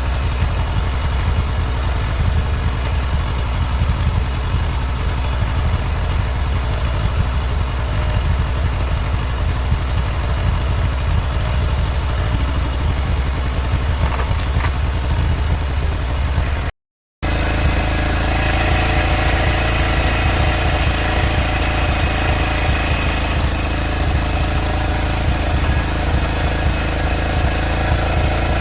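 Bajaj CT 100's single-cylinder four-stroke engine idling steadily through its modified silencer. It cuts out for a moment about two-thirds of the way through, then carries on.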